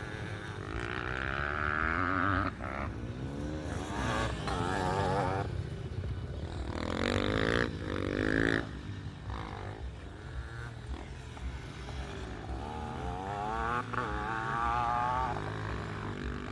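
Dirt bike engines revving up and dropping back over and over, with the loudest high revs about halfway through.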